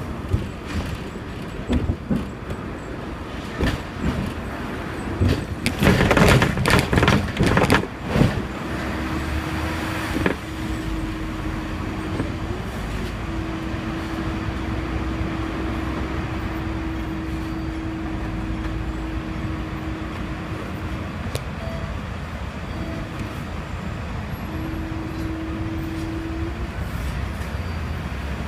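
Hong Kong double-decker tram in motion: wheels knocking over the rails, then a loud clatter for about three seconds, about six seconds in. After that comes a steady hum and low rumble with a held tone that breaks off a few times.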